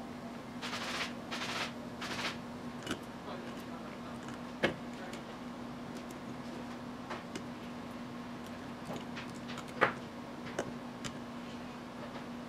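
Small clicks and knocks of distributor parts being handled and fitted, with two sharper clicks, over a steady low hum; three short hissing bursts come near the start.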